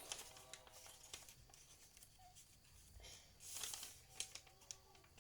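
Faint rustling and creasing of a paper sheet being folded by hand, with a slightly louder rustle a little past halfway.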